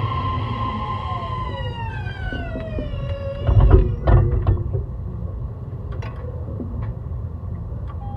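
E131 series train's Hitachi hybrid SiC VVVF inverter and traction motors whining in several falling tones as the train slows, the pitch sliding down over about three seconds and dying out. A few heavy clunks from the running gear come a second later, followed by lighter clicks.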